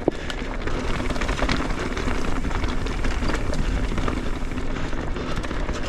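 Mountain bike rattling through a rock garden at speed: a stream of small knocks and clatter from the tyres, chain and frame over the rocks, with wind rumbling on the camera microphone.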